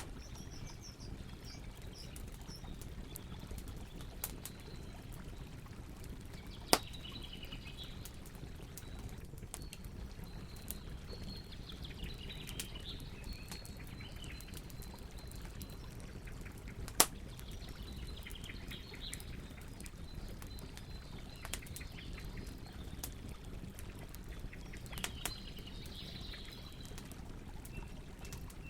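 Campfire burning with a steady low rumble, broken by occasional sharp crackling pops from the wood, three of them loud. Birds call at intervals in the background.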